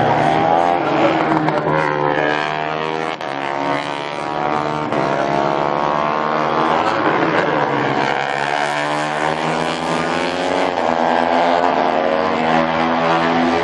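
MotoGP race motorcycles' four-stroke engines at high revs, several at once, their pitch climbing and dropping through gear changes as the bikes pass.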